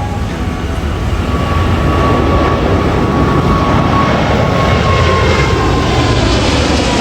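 Jet engine noise from a departing Boeing 777-300ER's GE90 turbofans, growing louder over the first couple of seconds as the jet passes. A high whine falls slightly in pitch through it.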